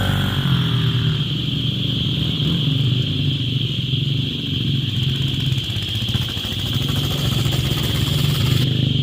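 A motor vehicle's engine running steadily at an even low pitch, with a constant high-pitched whine above it.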